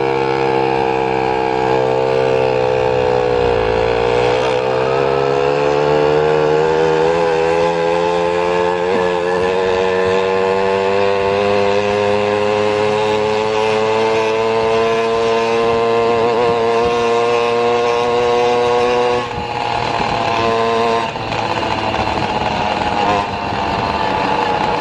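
Motor of a moving vehicle heard from on board, its pitch rising slowly and steadily as it gains speed, dropping about 19 seconds in, then climbing again.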